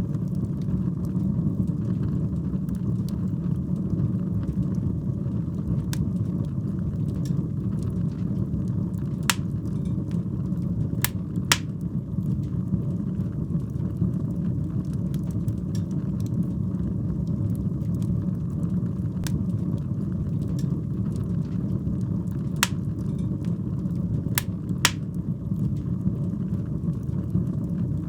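Wood fire burning in a fireplace: a steady low rumble of flames with scattered crackles and a handful of sharp pops, the loudest about nine seconds in, twice around eleven seconds, and three more in the last third.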